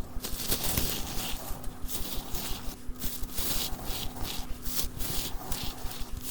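Dry, brittle soap crunching and crumbling under repeated scraping strokes, about two to three a second.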